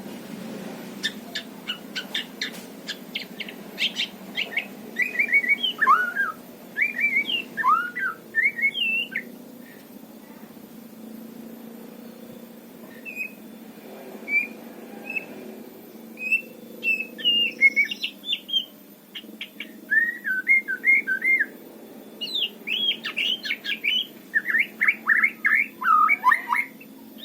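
White-rumped shama singing: varied phrases of quick whistled notes, chirps and sweeping notes, with a pause of a few seconds midway.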